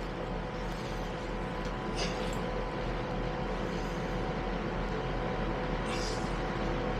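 Steady running noise inside a passenger train carriage: an even rumble with a few faint steady tones, slowly getting a little louder, with a couple of faint clicks.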